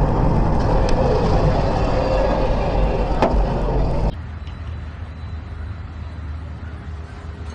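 Steady rumble of a car driving, with a sharp click about three seconds in. About four seconds in it cuts abruptly to a quieter, even rumble of road noise.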